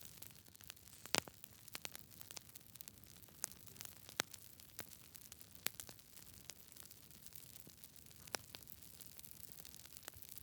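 Wood fire crackling in a fireplace: irregular sharp pops and snaps over a soft hiss, the loudest pop about a second in.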